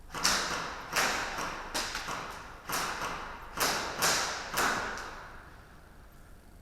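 Airsoft guns firing, about nine sharp shots in irregular succession over some five seconds, each with a short echoing tail, then a pause.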